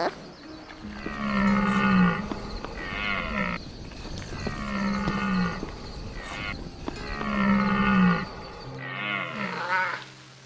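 Cow mooing: three long moos about three seconds apart, each dropping in pitch at the end. Near the end the sound changes to shorter animal calls.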